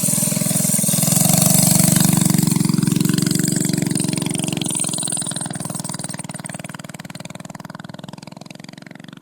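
Small 5.5 horsepower single-cylinder engine of a homemade bicycle-frame minibike pulling away under throttle. It is loudest in the first two seconds, then fades steadily as the bike rides off.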